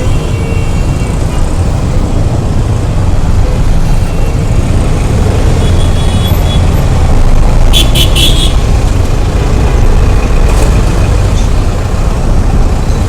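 Road noise from riding a motorbike in city traffic: a heavy, steady low rumble of wind on the microphone and engines. A vehicle horn honks in short beeps about eight seconds in, with a fainter honk a little before.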